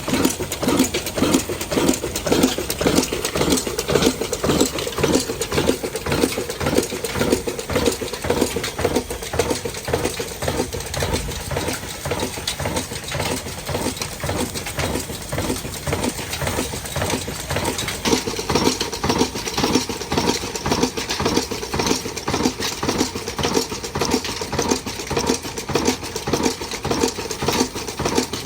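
Old 22 hp black desi diesel engine running steadily, its firing beats coming in an even, quick rhythm.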